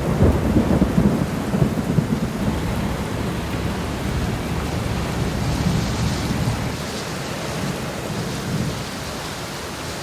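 Thunderstorm: a rumble of thunder, loudest in the first couple of seconds and then dying away, over steady rain.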